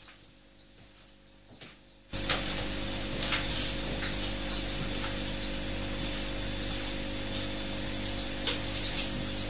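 Faint room tone with a few light clicks, then about two seconds in a loud, steady hiss starts abruptly and holds without change.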